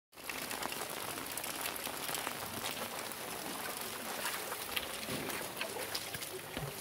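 Heavy rain falling steadily: an even hiss dotted with many small drop ticks.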